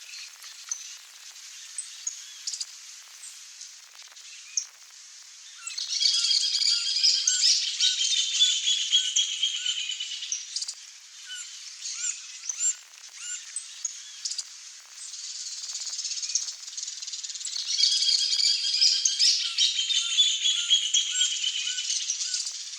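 Wild birds calling, with scattered sharp clicks, broken by two loud bouts of dense, many-noted chattering lasting about five seconds each.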